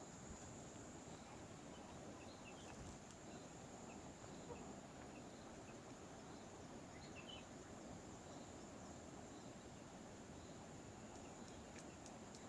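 Faint steady high-pitched drone of insects such as crickets, with scattered faint bird chirps over a low, even rushing hiss.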